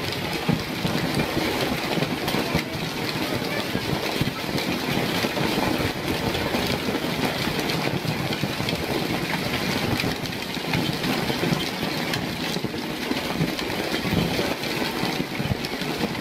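Hail falling hard: a steady, dense clatter of countless small impacts.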